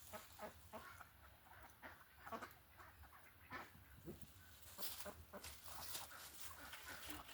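Faint chicken clucking, in short scattered calls.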